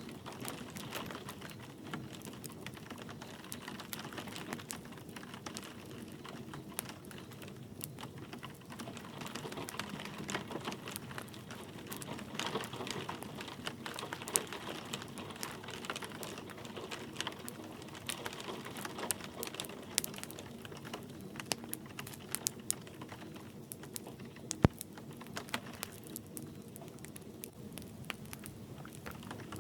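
Wood fire crackling in a fireplace, with irregular sharp pops and snaps, one louder pop near the end, over a steady hiss of light rain.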